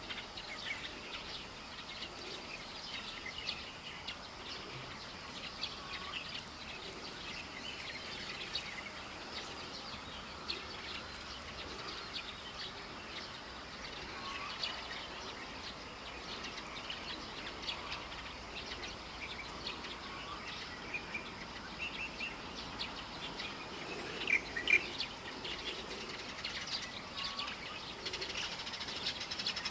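Many birds chirping and calling, with short, high chirps scattered throughout over a faint steady background. A louder cluster of calls comes about twenty-five seconds in.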